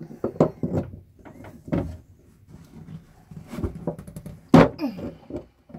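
Irregular knocks and clunks of hands and tools working on a plumbing fitting in the boat's bathroom, trying to free a pipe that has been glued tight. One sharp knock near the end is the loudest.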